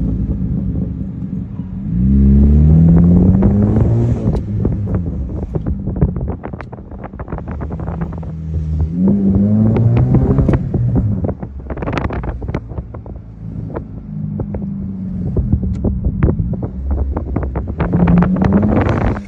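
2012 Honda Civic 1.8-litre four-cylinder through an aftermarket exhaust, revved up three times. Each time the revs drop, the exhaust gives a string of sharp pops and crackles.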